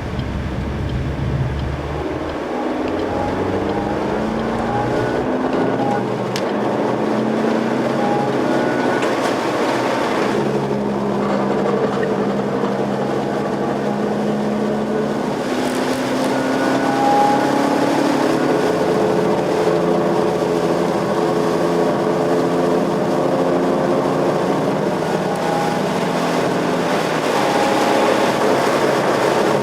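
Suzuki Swift's engine under hard acceleration on a track, its pitch climbing repeatedly and dropping back at each gear change, with steady road and wind noise underneath.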